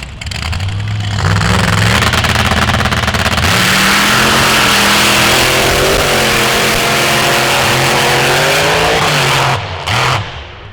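Off-road vehicle engine revving hard, its pitch climbing and then held high with a loud rushing noise over it. It drops off near the end.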